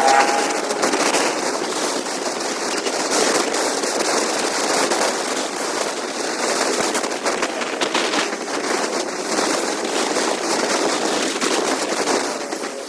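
Wind noise and engine noise from a motorcycle on the move, heard as a steady dense crackle with many small clicks.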